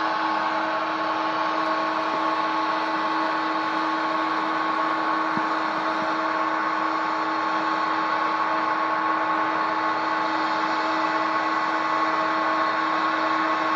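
Airliner jet engines running steadily over a hiss, with a constant hum made of a few fixed tones and no change in pitch or loudness.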